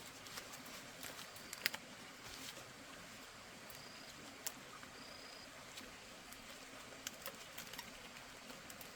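Faint scattered clicks and taps, with two short high chirps from a bird a few seconds in.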